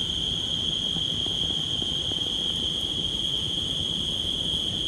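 A steady chorus of insects gives an unbroken high-pitched trill, over the dense crackle of a campfire burning.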